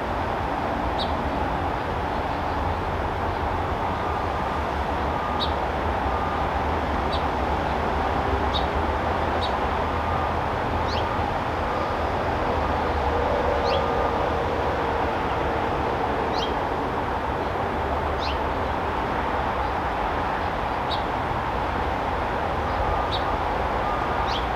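Backyard ambience: a steady low rumble of background noise, with a bird giving short high chirps every second or two.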